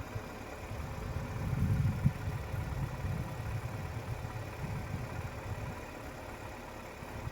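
2025 Mazda CX-5 engine idling steadily as a low rumble, a couple of minutes after a cold start in the snow, slightly louder for a moment about two seconds in.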